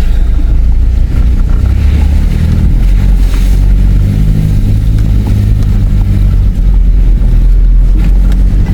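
Four-wheel drive's engine running under load with a deep rumble, its pitch shifting as the vehicle works over rough off-road ground.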